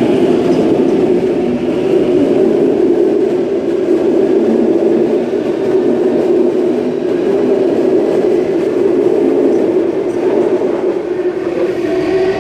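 Waratah Series 1 electric train pulling out of the platform, its wheels and traction running past in a loud, steady noise.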